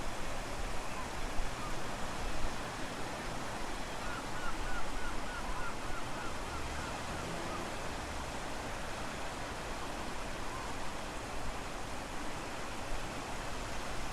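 Strong wind and ocean waves making a steady rushing noise. About four seconds in comes a quick run of short high chirps, about four a second, lasting some three seconds.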